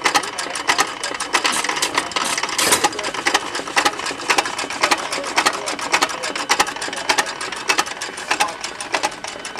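1911 Associated Manufacturers 'Hired Man' 2.5 horsepower hit-and-miss farm engine running, a fast mechanical clatter of sharp clicks several times a second.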